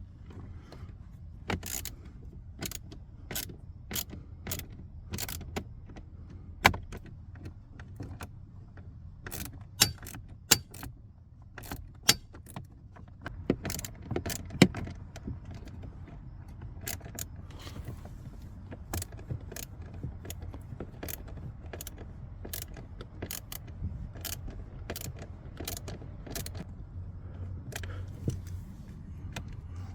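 Irregular sharp clicks and light knocks of hand tools and small parts being handled, a few of them much louder, over a low steady hum.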